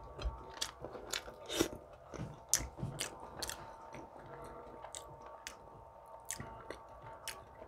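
A person chewing a mouthful of baked beans with bacon and toasted English muffin up close, with irregular small clicks and soft crunches.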